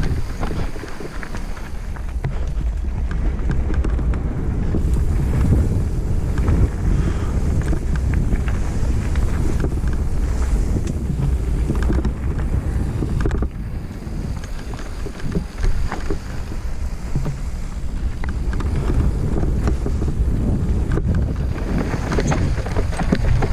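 Wind buffeting the microphone and a mountain bike's tyres rumbling over a dirt trail, with scattered clicks and rattles from the bike as it rides over rough ground.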